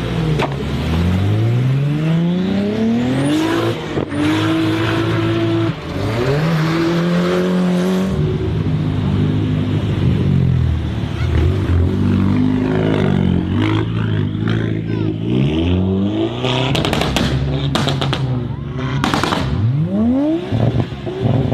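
Modified car engines revving hard and accelerating, the engine note climbing in pitch again and again and dropping back between climbs, like runs through the gears, with sharp crackles near the end.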